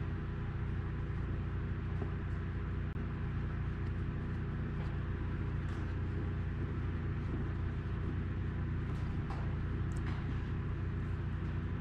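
A steady low mechanical hum from a running motor or fan, with several faint light clicks from hand tools or small parts.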